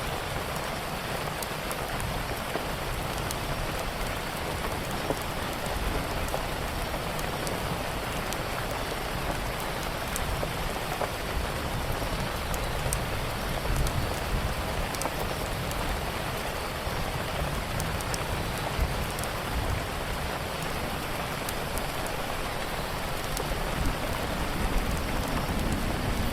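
Steady rain falling on a surface, an even hiss with scattered sharp ticks; a low rumble swells near the end.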